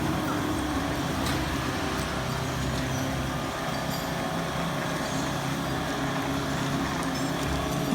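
A heavy vehicle's engine running steadily with an even low hum.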